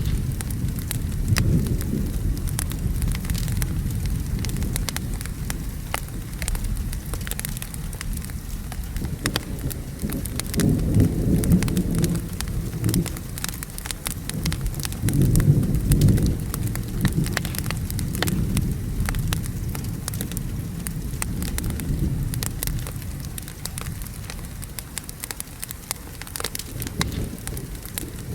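Mixed ambience of steady rain and rolling thunder, with a low rumble that swells into two louder thunder rolls near the middle. Crackling fire pops sound throughout as sharp ticks.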